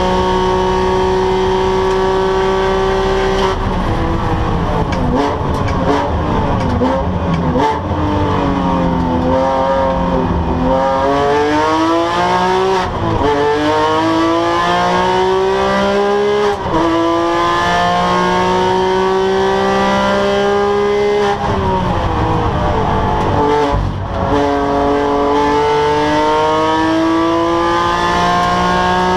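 Porsche 997 GT3's flat-six engine at racing speed: it winds up in pitch through the gears with sharp drops at upshifts, and twice falls away in pitch under braking before accelerating hard again.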